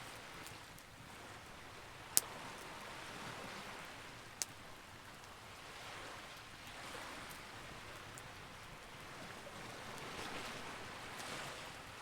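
Campfire burning: a steady soft hiss that swells and fades slowly, with a loud sharp pop about two seconds in, a smaller pop a couple of seconds later, and a few faint crackles.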